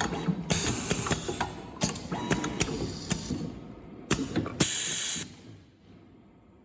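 Semi-automatic USB cable soldering machine running through its cycle: sharp mechanical clicks and clatter with short bursts of hiss, the last and loudest hiss about half a second long near the end. The machine then falls quiet about five and a half seconds in.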